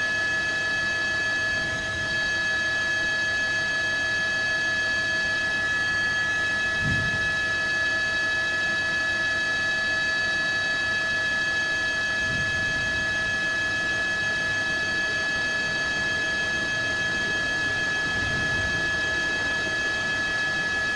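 A steady, unchanging tone made of several pitches sounding together, held at one level throughout, with faint low swells beneath it three times.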